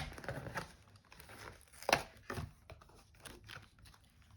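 Paper and plastic Panini sticker packaging being torn and crinkled by hand. Irregular crackles and tears, with a sharp one right at the start and a louder one about two seconds in.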